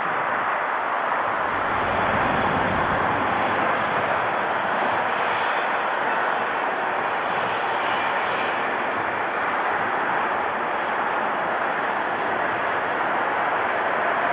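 Jet airliner engines running, a steady rushing noise with faint high whine in the middle seconds.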